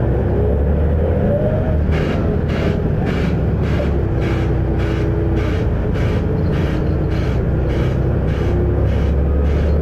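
Volvo B7RLE bus's six-cylinder diesel engine running under way, a steady low rumble heard from on board, with a faint whine. From about two seconds in, a regular ticking sounds about twice a second.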